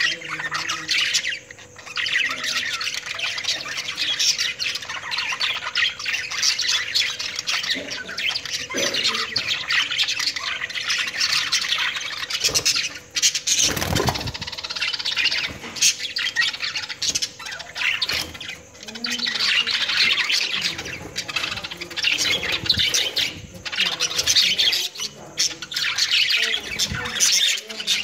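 A group of pet budgerigars chattering and squawking continuously in a rapid, busy twitter, with a short louder burst of noise about halfway through.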